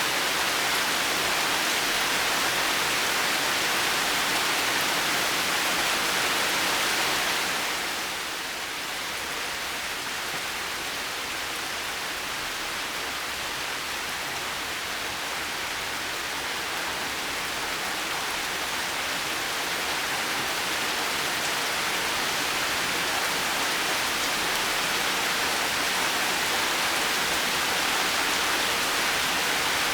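Steady heavy rain, an even hiss with no thunder. It dips in level about a quarter of the way in, then slowly swells back.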